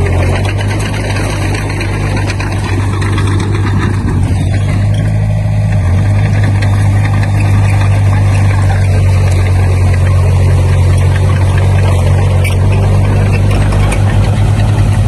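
Heavy diesel earthmoving machinery running steadily, a deep constant engine note under a broad mechanical clatter and rumble; near the end the low note starts to throb.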